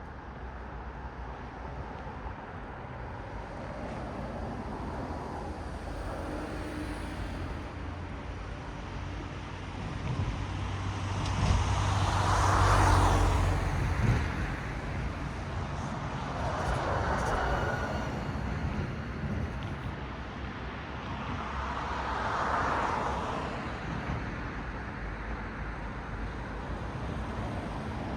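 Cars passing one at a time on a road, each a swell of tyre noise that rises and fades away. Three pass clearly, about halfway through, a few seconds later and near the end; the first is the loudest, with a low rumble.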